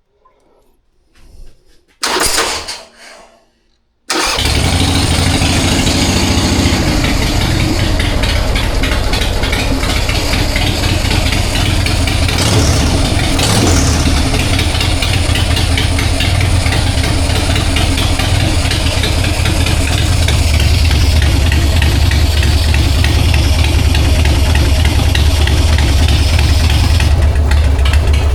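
1999 Harley-Davidson Sportster 1200's air-cooled V-twin, fed by an S&S Super E carburetor, being started on choke: a short burst of noise about two seconds in, then the engine fires about four seconds in and keeps running steadily with a deep, loud note. This is the test start after the carburetor's accelerator pump was cleaned and replaced to cure a sputter when the throttle was cracked.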